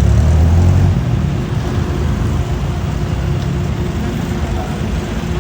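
City street traffic: a vehicle engine rumbling close by, loudest in about the first second, over steady road noise with a faint constant hum.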